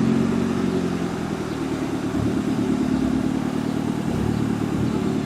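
Car engine running at low revs, its pitch wavering slightly.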